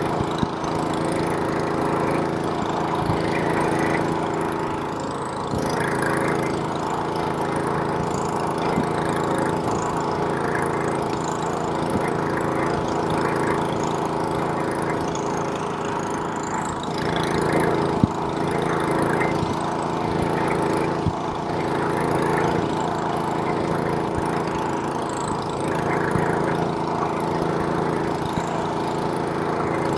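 Snowblower's small gasoline engine running steadily as it throws snow, with a few sharp clicks over the engine note, the loudest about two thirds of the way through.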